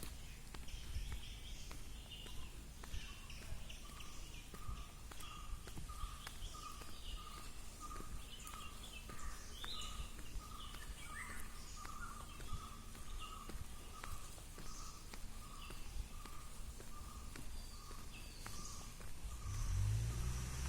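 Forest birds calling: one bird repeats a short, single-pitched note about twice a second, while others chirp higher and irregularly over a low background rumble.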